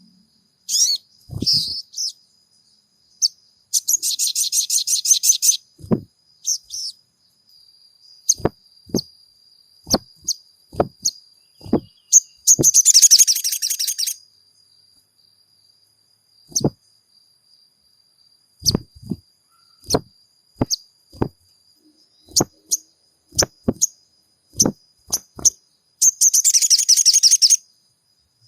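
Sogon (crimson sunbird) calling: sharp single chirps scattered irregularly, broken three times by a fast rattling trill about a second and a half long. This is a recorded lure call used to provoke captive sogon birds into singing.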